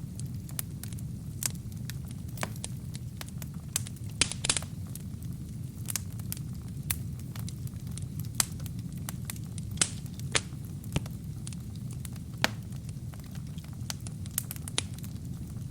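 Wood fire burning in a fireplace: a steady low rumble of flames with irregular sharp crackles and pops from the burning logs, a quick cluster of louder pops about four seconds in.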